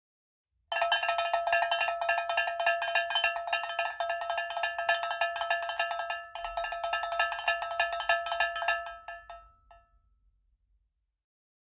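A metal bell ringing in a fast, continuous run of strikes with a steady ring. It breaks briefly a little past halfway, then stops and rings away to nothing.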